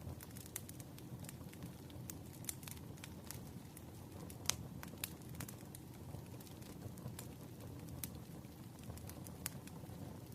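Crackling fire ambience: irregular sharp pops and snaps over a steady low rumble, the loudest pop about halfway through.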